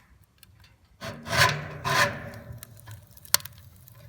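Two rasping scrapes, one about a second in and the next about half a second later, each trailing off, then a single sharp click near the end.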